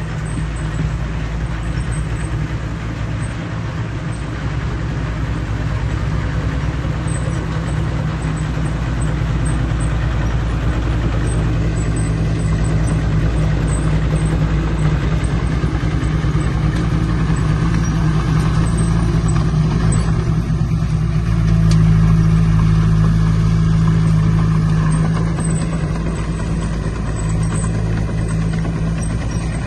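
Heavy earthmoving machine's diesel engine running steadily, getting louder about two-thirds of the way through, then easing back.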